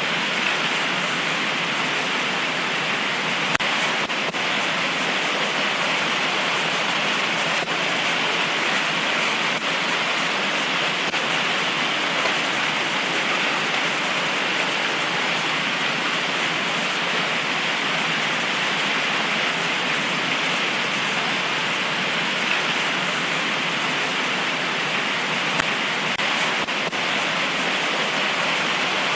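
Heavy tropical rain pouring steadily: an even hiss with a few sharper drop ticks now and then.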